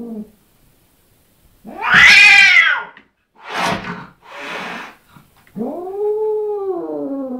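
Domestic cat caterwauling in threat: a yowl trails off, then a loud rising-and-falling screech, two short hisses, and a long, lower drawn-out yowl near the end. Yowling broken by hissing like this is a cat's defensive warning.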